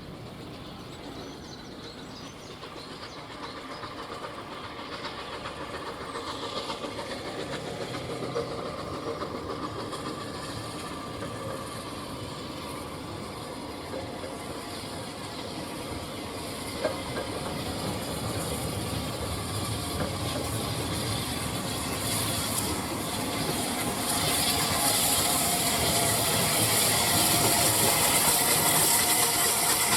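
Steam locomotive working a train, growing steadily louder as it approaches, with a strong hiss of steam building over the last several seconds. A single sharp click is heard a little past halfway.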